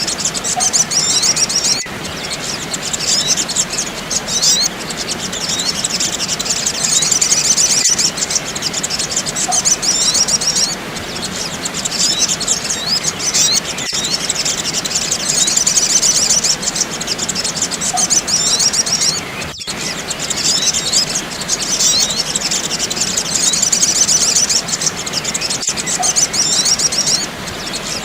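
Dense, rapid, high-pitched chirping and trilling of sogok ontong sunbirds from a bird-lure recording. The pattern repeats about every six seconds, with a brief break at each repeat.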